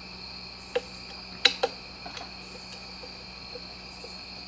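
A steady high-pitched ringing chirr, with a few light clicks and knocks, like small parts being handled, about a second and a half in.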